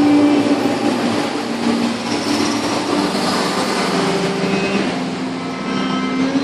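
Vehicle engines running in steady street traffic, with engine tones that shift in pitch now and then.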